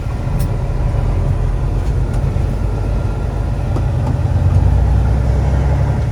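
Detroit diesel engine of a Peterbilt 389 semi truck running at a steady idle with a deep drone, growing somewhat louder about four and a half seconds in.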